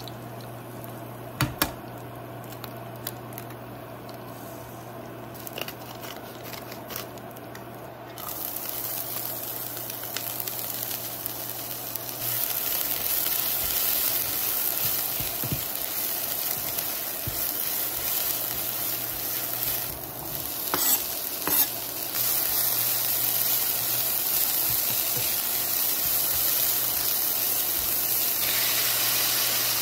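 Eggs are cracked into a hot oiled nonstick pan with a couple of sharp cracks about a second and a half in, over a low steady hum. After about eight seconds, and louder from about twelve, oil sizzles as sliced green onion and then diced ham are stir-fried, with the wooden spatula scraping and knocking on the pan around twenty-one seconds.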